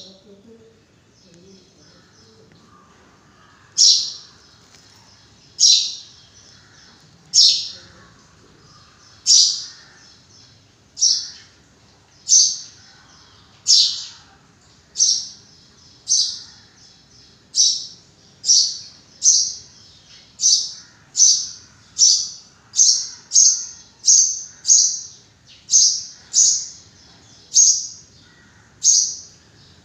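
A bird calling over and over, one short, high call at a time, starting about four seconds in. The calls come about two seconds apart at first and quicken to less than a second apart.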